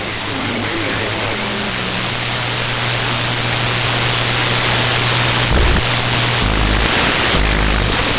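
CB radio static hissing from the receiver on an open channel, with a low steady hum underneath, slowly getting louder.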